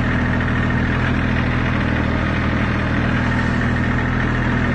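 Kubota L2600 compact tractor's three-cylinder diesel engine running steadily at a constant speed, shortly after a hard start.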